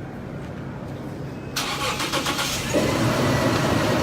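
Toyota Land Cruiser petrol V6 being started: the starter cranks suddenly about a second and a half in, the engine catches about a second later and settles into a steady, louder run.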